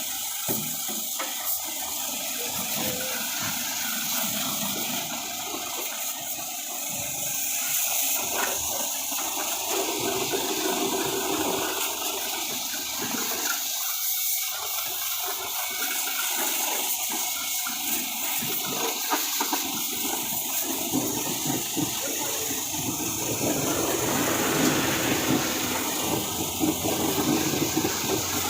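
Steady rush of spraying water from a washing jet.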